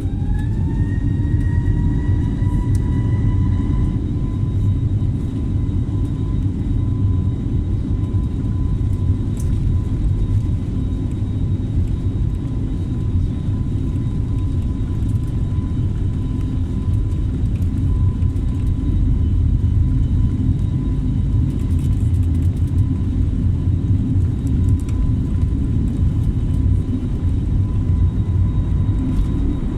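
Airliner engines spooling up to takeoff power: a whine rises in pitch over the first few seconds, then holds steady over a loud, steady low rumble during the takeoff roll.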